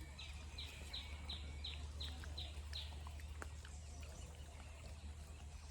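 A bird calling a run of about eight short falling notes, roughly three a second, over the first three seconds, followed by a few faint clicks.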